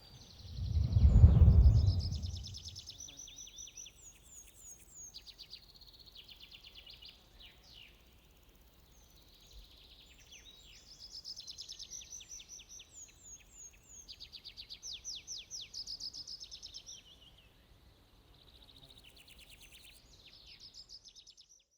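Songbirds singing, with rapid trills, chirps and short whistles that come and go in phrases. A low rumbling swell about a second in is the loudest sound and fades by about three seconds.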